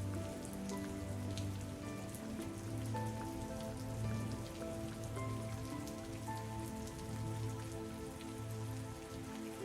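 Steady rain with fine, crisp drop hits, mixed with soft music of long held notes over a slow, repeating bass note.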